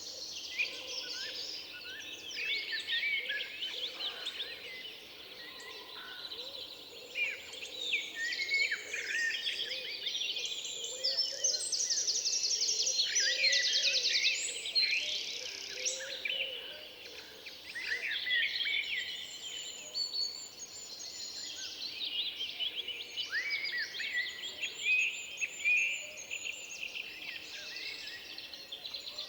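Several songbirds singing at once in a forest, many chirps and whistled phrases overlapping, with fast high trills around the middle.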